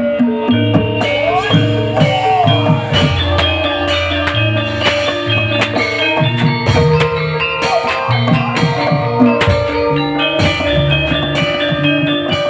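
Live gamelan-style music: tuned metal percussion and drums played together, struck notes ringing on over a steady beat.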